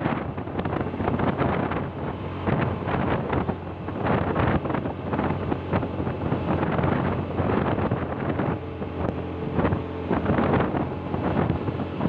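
Wind buffeting the microphone while travelling along a road, over the steady drone of a vehicle engine.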